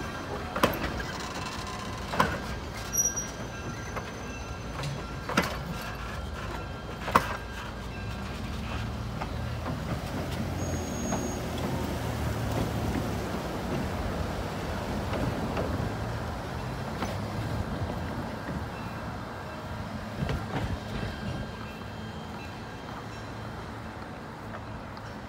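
Passenger coaches of a steam-hauled excursion train rolling past on the rails: a steady low rumble with four sharp clacks in the first seven seconds, fading in the last few seconds as the rear car moves away.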